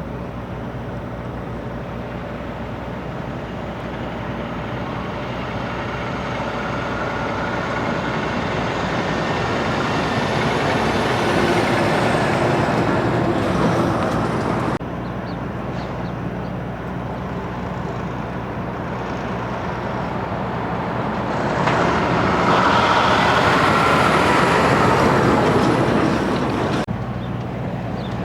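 Big rig trucks driving past: diesel engine and tyre noise swells as each truck comes close, over a steady low engine hum. The sound cuts off abruptly about halfway through and again near the end.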